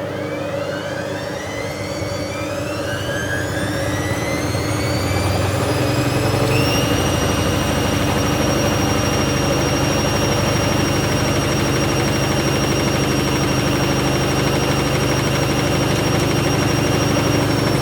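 Bauknecht WA 7778 W front-loading washing machine spinning up. Its brushed motor gives a whine that rises for about seven seconds, then holds steady at full spin speed along with the drum's hum. The machine's drum bearing was already starting to fail.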